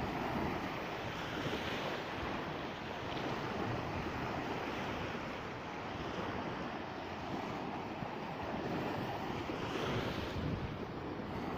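Sea surf washing in, with wind rumbling on the microphone; the wash swells and eases every few seconds.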